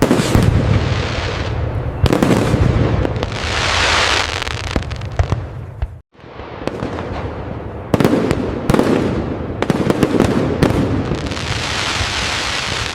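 Fireworks display: repeated bursts with dense, continuous crackling and booming, the crackle swelling and fading in waves. The sound cuts out abruptly for a moment about six seconds in, then carries on.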